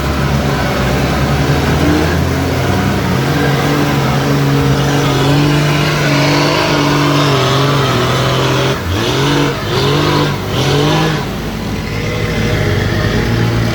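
Off-road vehicle engine running under load, held at steady revs, then revved up and down in several quick blips of the throttle about nine to eleven seconds in, before settling back to a steady run.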